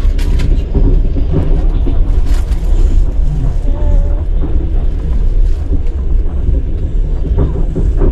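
Steady low rumble of a moving passenger train, heard from inside the carriage, with a few faint knocks.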